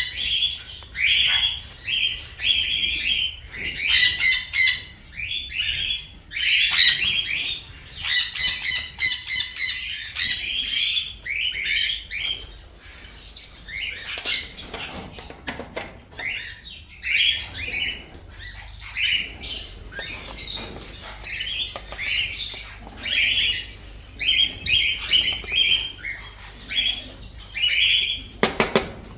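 Parrots calling: a continuous run of short, shrill chirps and squawks, busiest in the first half and thinning out a little later.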